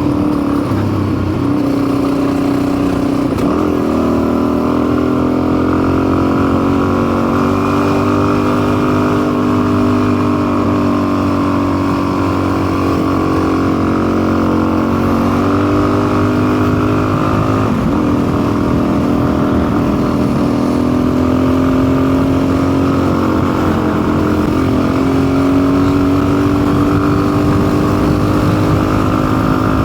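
Custom motorcycle's engine running under way. Its pitch drops and climbs a few times as the throttle and gears change.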